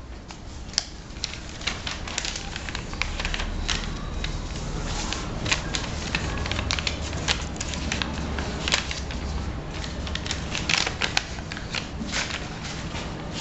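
A sheet of paper being torn slowly by hand along a pre-creased fold: a long run of irregular crackles and rustles.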